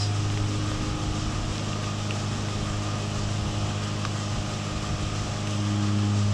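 Dairy milking-shed machinery running with a steady low hum.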